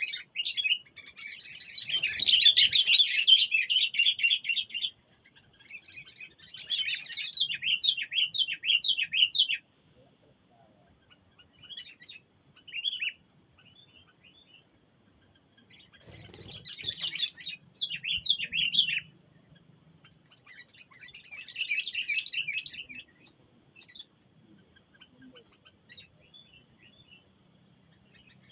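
Bulbul (kutilang) calls: repeated bursts of rapid, high chattering notes, each burst lasting a few seconds, with quiet gaps between them.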